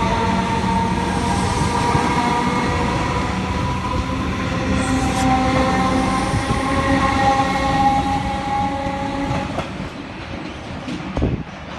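Comeng electric suburban train pulling away: a whine of several steady tones that slowly climb in pitch as it gathers speed, over rumbling wheels on the rails. The whine dies away about nine and a half seconds in.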